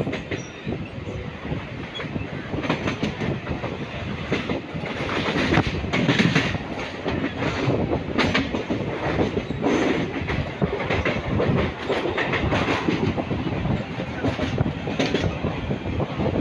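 Mumbai suburban local train running, heard from on board: a steady rumble with the wheels clattering over the rail joints, somewhat louder from about five seconds in.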